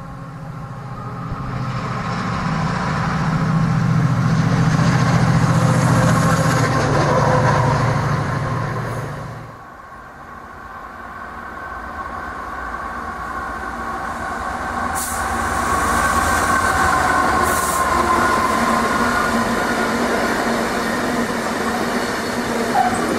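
A locomotive-hauled train passing through the station, its low drone building for several seconds and then cutting off abruptly about ten seconds in. A second passing train follows, rising steadily with a whine, and short high hisses come twice near the middle.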